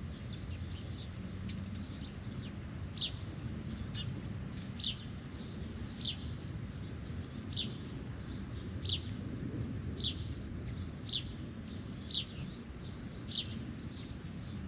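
A bird calling: a short, high note that slides downward, repeated about once a second, around ten times, over a steady low rumble.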